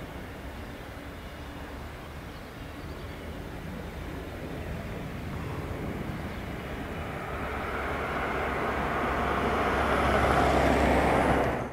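Jet engine noise from a Boeing 767-300ER on its landing, growing steadily louder and then cutting off suddenly.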